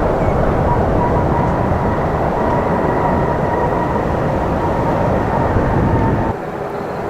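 Jet airliner's engines: a loud, steady rushing noise with a thin high whine, which cuts off abruptly about six seconds in, leaving a quieter open-air background.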